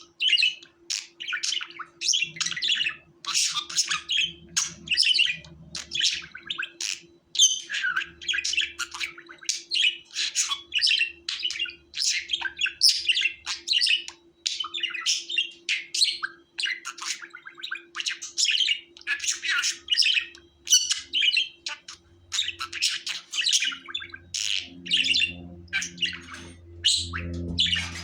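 Budgerigar chattering and warbling: a continuous run of quick, high chirps with scratchy squawks mixed in. A faint low hum sits underneath and grows a little near the end.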